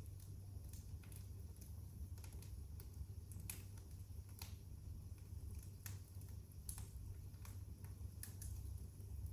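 Fire in a fireplace crackling, with irregular sharp pops and snaps over a faint low rumble.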